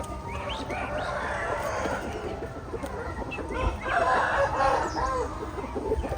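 Chickens in a flock, many birds clucking and roosters crowing at once in overlapping calls, with a busier run of short clucks about four seconds in.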